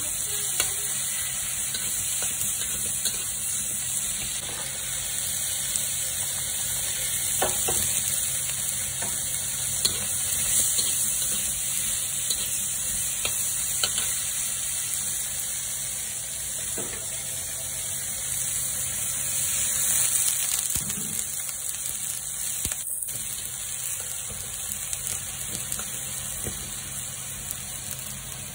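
Food stir-frying in a wok: a steady sizzle, with a metal spatula scraping and clicking against the pan now and then. Near the end, liquid added to the wok bubbles.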